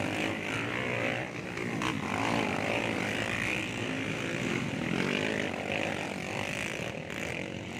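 Motocross dirt bike engines revving, the pitch rising and falling again and again.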